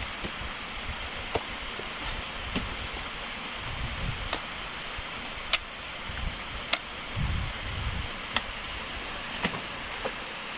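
Sharp clicks and knocks, about one every second or so, over a steady rushing hiss, with a few low rumbles of wind on the microphone. These are the sounds of a climber working up out of an ice crevasse on a rope.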